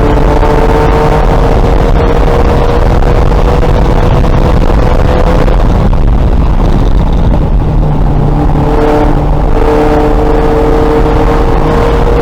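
A 2000 VW Golf race car's engine, loud and pulling under load, its note climbing slowly over a steady layer of road and wind noise. About seven seconds in the engine eases off, then pulls again.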